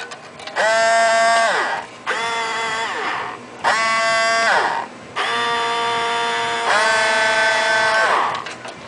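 A toy boat's small battery-powered motor spinning its propeller blades with a steady high buzz, switched on and off four times; the last run is the longest. Each time it stops, the pitch slides down as the motor winds down.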